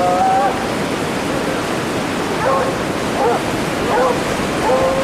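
Stray dogs barking: one drawn-out cry at the start, then four short barks under a second apart, over a steady rushing noise.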